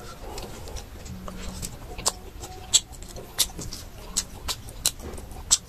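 Close-up mouth sounds of chewing and gnawing boiled meat off the bone: soft wet chewing, then from about two seconds in a string of sharp smacking clicks, roughly two a second.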